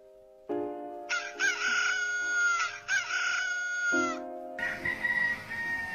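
A rooster crowing twice in a row, each crow about a second and a half long, over steady background music.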